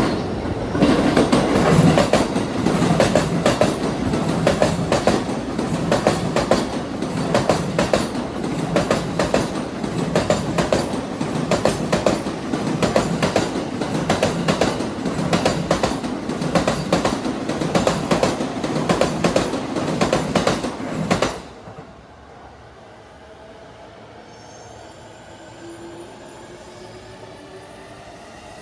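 E233 series 3000 and E231 series 1000 electric multiple-unit train passing at speed over rail joints, its wheels hitting the joints in a fast, continuous clickety-clack. The clatter stops suddenly about 21 seconds in, leaving only a faint background.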